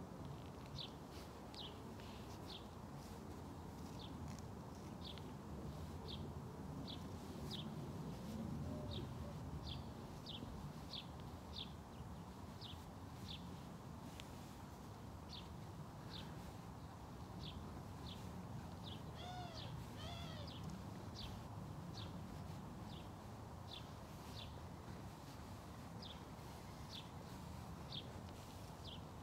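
A small bird chirping again and again: short, high, downward-sliding chirps, roughly one or two a second, with two brief, fuller calls about two-thirds of the way in, over faint room noise.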